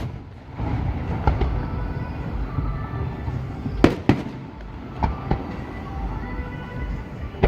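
Fireworks bursting: a scattering of sharp bangs over a continuous low rumble, the loudest a pair about four seconds in, with another pair a second later.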